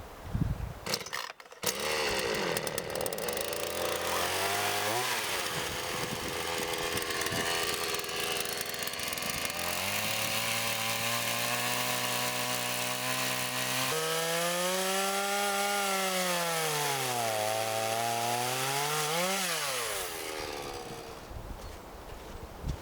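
Chainsaw engine running and revving, its pitch sagging and climbing back a couple of times as it saws through wood, then stopping about twenty seconds in.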